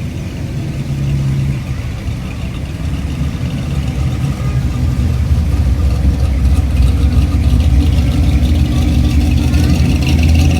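Car engine running close by, getting steadily louder over the first several seconds and then holding; voices are faint behind it.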